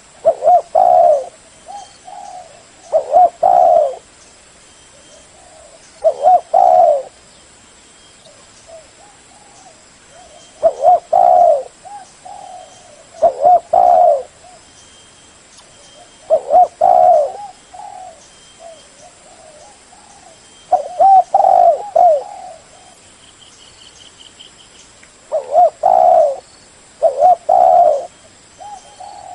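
Spotted dove cooing: a loud multi-note coo phrase roughly every two to four seconds, with softer coos between.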